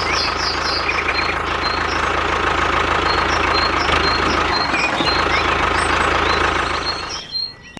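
Small engine running steadily, then cutting off about seven seconds in.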